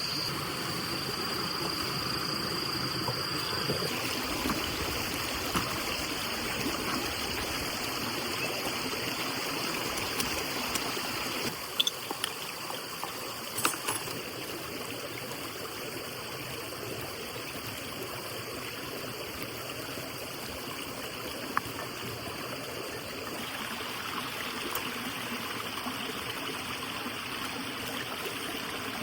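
Steady running water, like a small stream trickling, with a few sharp clicks near the middle. A high steady tone sounds over it and stops about four seconds in.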